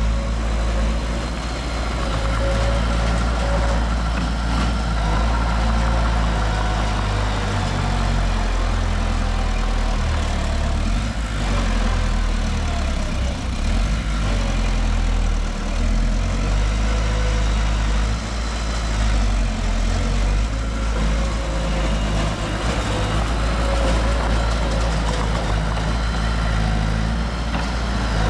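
Heavy diesel engine of earthmoving machinery running steadily, a low, even sound with faint higher tones wavering over it.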